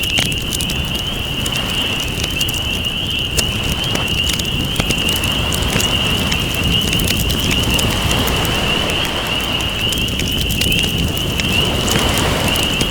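Campfire crackling with frequent sharp pops over a low wash of ocean waves that swells in the middle, with a steady high-pitched trill above.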